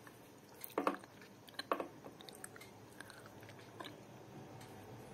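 A person biting and chewing roti with chicken curry: two louder mouth sounds about one and two seconds in, then softer scattered chewing clicks.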